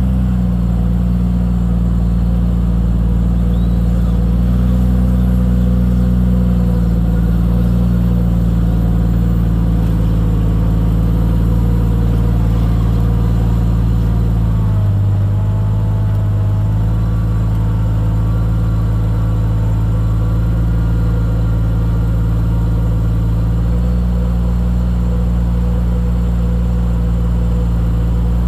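Jeep Cherokee XJ's engine running steadily at low revs while rock crawling. About halfway through, the engine note briefly dips and then settles a little higher.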